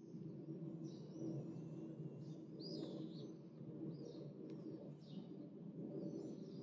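Small birds chirping, short high calls and brief trills every second or so, over a steady low background hum.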